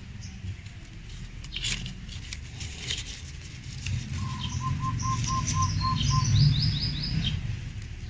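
Birds chirping in the trees: one bird gives a run of about seven short notes on one pitch, another a quick series of falling notes, with scattered chirps around them. A low rumble runs underneath and swells about two-thirds of the way through.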